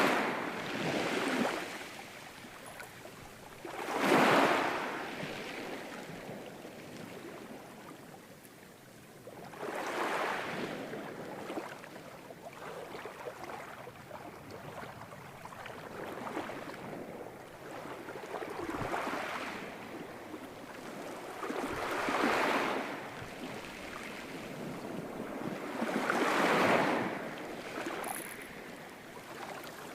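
Ocean surf: waves breaking one after another, each swelling to a hissing crash and washing away, about six in the stretch, with a softer wash between them.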